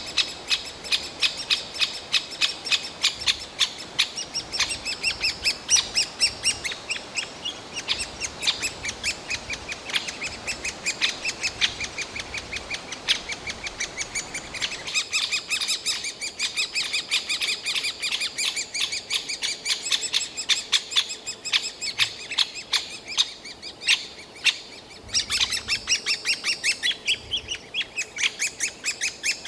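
Great spotted woodpecker nestlings begging from the nest hole: a shrill, rapid, unbroken run of short calls. This is the constant food-begging of chicks close to fledging, urging the parents to bring food.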